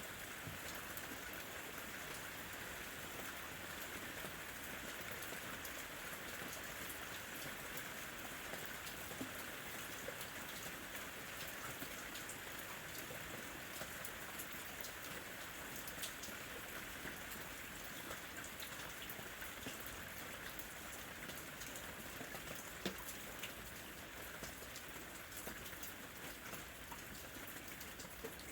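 Steady rain falling, a continuous patter with scattered sharper drip ticks standing out here and there.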